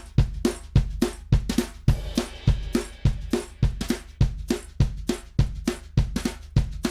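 Recorded acoustic drum kit playing a steady groove of kick, snare and hi-hat, mixed on a drum bus, with a cymbal wash about two seconds in.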